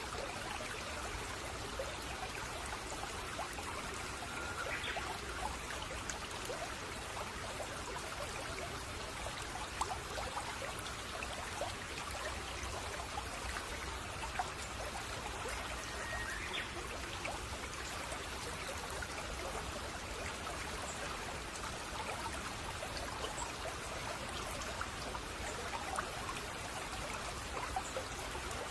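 A shallow brook babbling and trickling steadily, with two brief faint bird calls, one about five seconds in and one past the middle.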